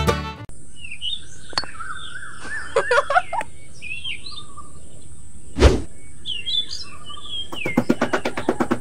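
Small birds chirping in short twittering calls over a steady faint hiss, with a single thump a little past the middle. Near the end comes a fast run of scraping ticks as a small hand trowel is drawn over sand.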